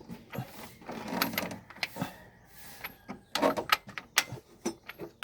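Metal hand tools clicking and knocking against engine parts: a scatter of sharp clicks that cluster together about three and a half to four seconds in.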